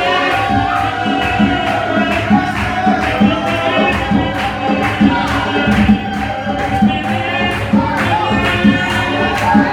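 Live gospel music: a group of voices singing over a steady percussion beat of about two strikes a second, with tambourine-like hits.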